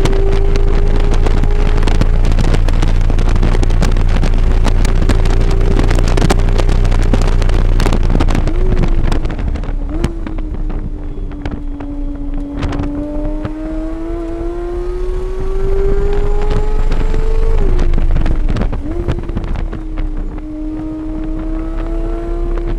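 Car engine heard from on board during a track lap, with heavy wind and road rumble on the microphone. The engine note holds high at speed, falls through downshifts with short throttle blips, climbs steadily under acceleration, then drops again with another blip near the end.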